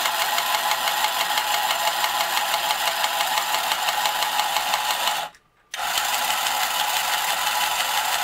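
Small battery motor and gearing of a 1965 Marx Moon Scout tin toy helicopter whirring steadily, spinning its rotors and driving its wheels. It cuts out for about half a second a little past halfway, then starts again.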